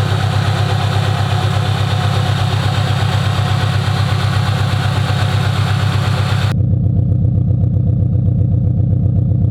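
Supercharged Subaru BRZ's flat-four engine idling steadily. About two-thirds of the way through, the sound abruptly turns duller and the hiss drops away.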